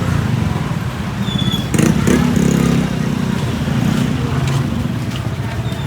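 A motor vehicle's engine running close by in street traffic, loudest about two seconds in, then easing off.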